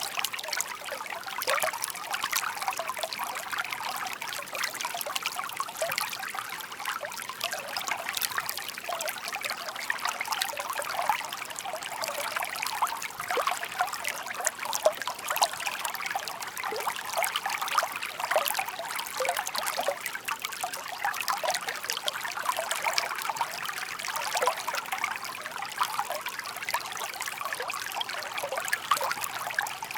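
Shallow park stream (seseragi) burbling and trickling steadily over stones, with many small splashes and gurgles.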